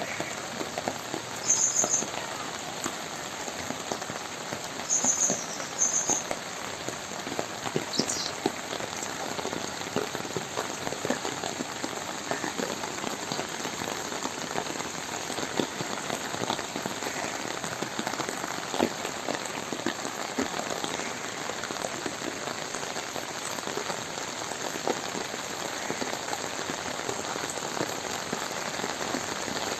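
Steady heavy rain falling on ground and water: an even hiss with scattered sharper drop hits.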